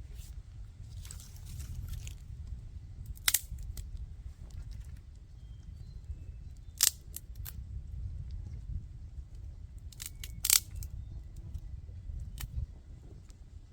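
A few sharp, separate clicks or snaps, the loudest about three seconds in, about seven seconds in and twice near ten seconds in, over a low steady rumble.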